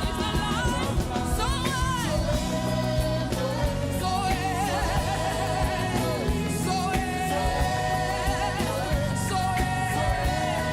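Gospel worship music: a voice sings long, wavering held notes with no clear words over sustained keyboard chords and a steady beat.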